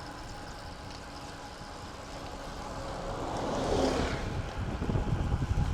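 Wind buffeting a microphone on a moving road bike, a steady rushing noise that grows louder, with low rumbling gusts in the second half.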